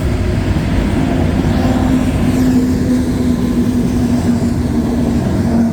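Loaded CSX coal train rolling slowly past, a steady low rumble of wheels and cars, with a steady hum coming in about a second in and holding almost to the end.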